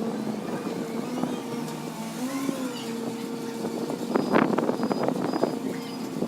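HW60 wheeled excavator's diesel engine running steadily, its pitch briefly rising and falling under hydraulic load about two seconds in. A run of sharp knocks and clatter comes about four seconds in.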